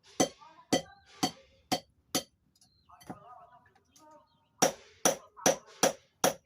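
Hand hammer striking a steel blade on an anvil in forging: a run of five ringing metallic blows about two a second, a pause of about two seconds, then five more blows in quicker succession.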